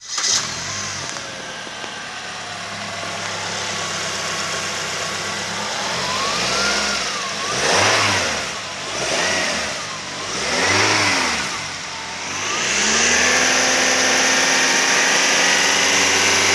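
2010 Suzuki Kizashi's 2.4-litre four-cylinder engine flares briefly as it starts, then idles steadily. It is revved up and let fall four times and then held at raised revs for several seconds near the end, running cleanly in a test that the seller calls good.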